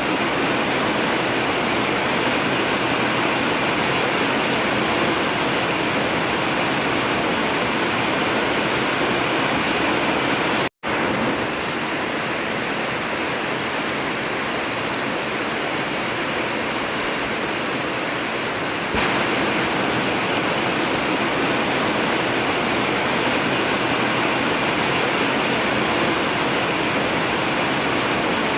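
Heavy rain drumming steadily on a tin roof. It cuts out for a split second about eleven seconds in and shifts slightly in tone about two-thirds of the way through, where the recording is spliced.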